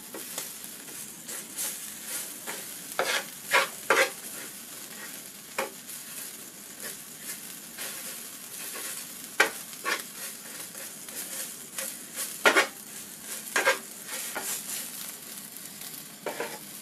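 Crickets sizzling as they fry on a flat griddle pan, with a wooden spatula scraping and knocking against the pan at irregular moments as they are stirred.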